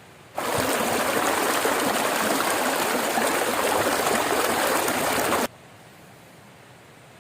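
Forest river flowing, a steady rush of water that cuts in sharply about half a second in and stops just as sharply about five seconds later.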